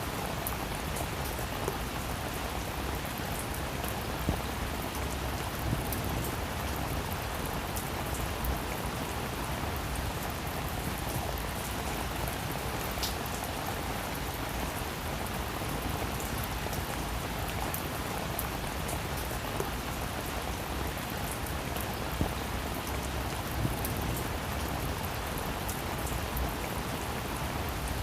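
Steady rain falling on a roof, an even patter with a few louder single drops standing out here and there.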